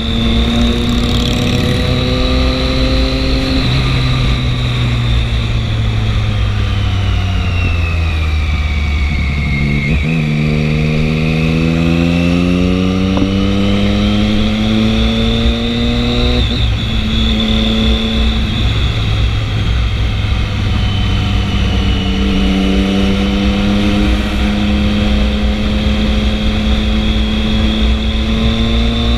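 Triumph 675 inline-three motorcycle engine running under way, its pitch holding and rising with the throttle, dropping at a gear change about ten seconds in and then climbing again, with more changes a few seconds later.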